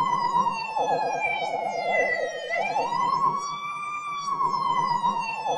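Police car siren: a long wail that falls slowly in pitch, jumps back up about halfway through and falls again, layered with a fast warbling tone.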